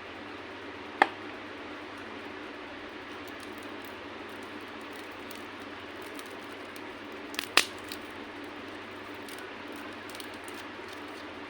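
Hard candy being crushed: one sharp crack about a second in, then two cracks close together at about seven and a half seconds, with a few faint crackles after, over a steady hiss.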